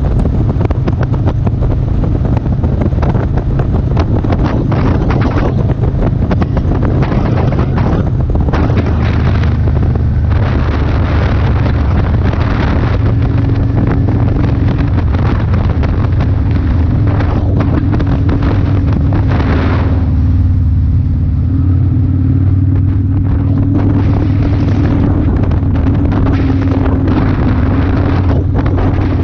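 Motorcycle engine running steadily under way, a low drone, with heavy wind buffeting on the microphone that eases for a few seconds about two-thirds of the way through.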